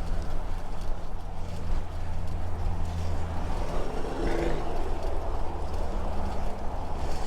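Steady rumble of passing highway traffic, cars and trucks.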